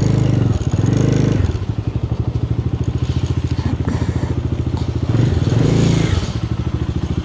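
Motorcycle engine running under way, its firing pulses steady throughout, getting louder briefly near the start, about a second in, and again around five to six seconds in.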